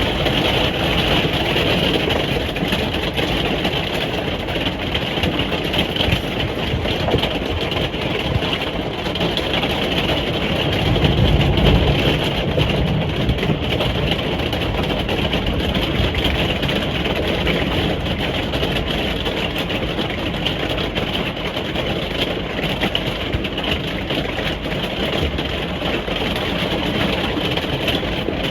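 Steady rain on a caravan roof heard from inside, a dense even patter. About eleven seconds in, a low rumble swells for a couple of seconds, then fades.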